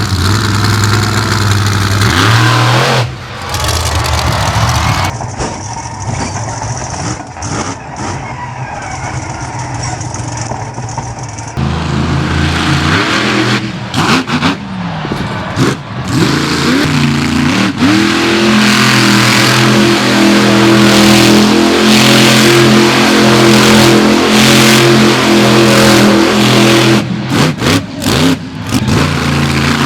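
Monster truck engine revving hard, rising and falling in pitch, then held at high revs for several seconds in the second half.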